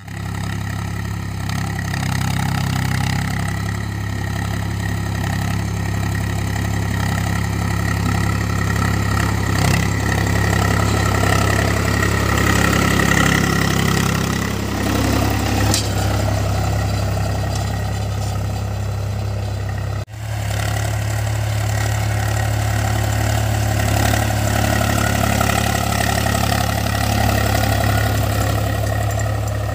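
Tractor diesel engine running steadily at low revs. It cuts out abruptly about two-thirds of the way through and comes straight back.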